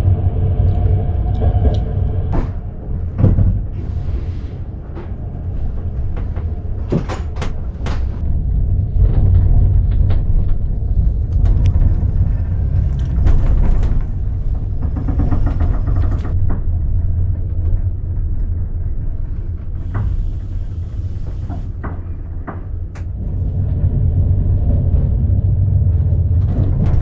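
Sleeper carriage of a night train running on the rails, heard from inside the compartment: a steady low rumble with irregular knocks and rattles on a bumpy ride.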